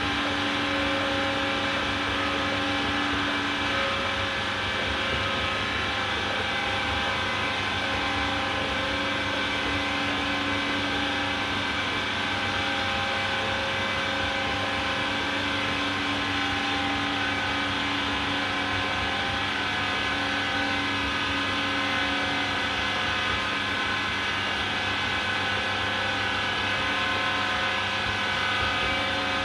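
AEG Lavamat Turbo washer-dryer running steadily mid-programme: an even motor hum and whine with several held tones, no pauses or knocks.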